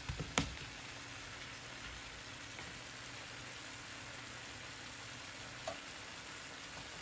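Boiled pork riblets with onion and garlic sautéing in a wok: a steady faint sizzle, with a couple of spatula knocks against the pan in the first half second.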